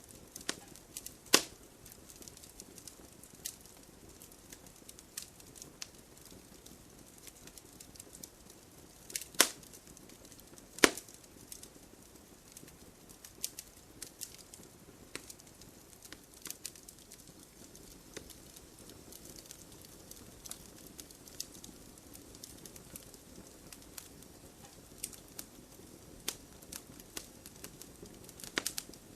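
Wood fire in a fireplace crackling: irregular small pops and snaps over a low steady hiss, with three louder sharp pops, one about a second in and two close together near the middle.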